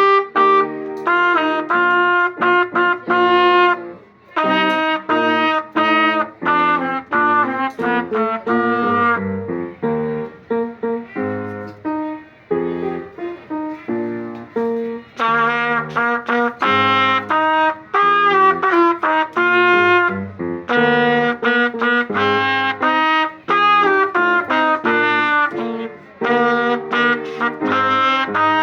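Wind band playing, with trumpets and other brass leading in short, detached notes. The band drops to a softer, thinner passage about nine seconds in, then the full band returns loud about six seconds later.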